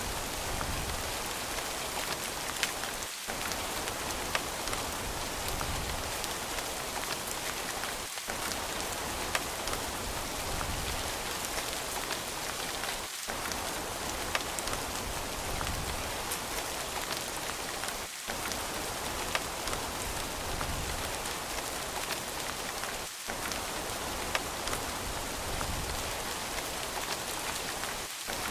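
Steady rain falling on a surface, an even hiss with scattered sharp drop ticks. The low rumble dips briefly about every five seconds.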